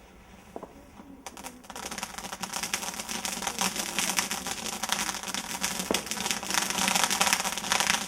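Firework crackling: a couple of sharp cracks about a second in, then a dense, rapid crackle that builds in loudness and keeps going.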